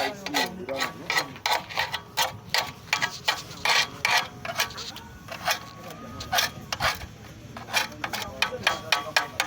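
Quick, uneven rasping strokes, roughly two to three a second, from a hand tool scraping or rubbing metal during exhaust pipe repair. Voices can be heard faintly.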